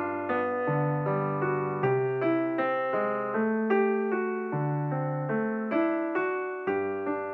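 Calm, slow piano music: struck notes fading away in an even pulse over low sustained bass notes.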